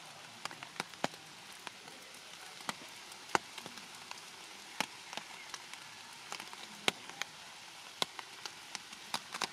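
Rain falling steadily, with single drops ticking sharply and at irregular moments on nearby surfaces.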